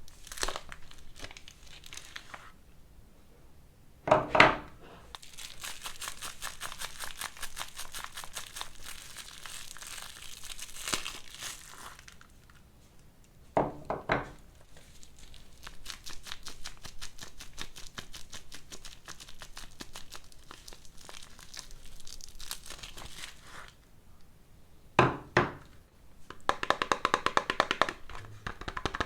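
Soap bar packaging being unwrapped: long stretches of rapid crinkling and some tearing of the wrappers. Three short, louder knocks stand out, about four, fourteen and twenty-five seconds in.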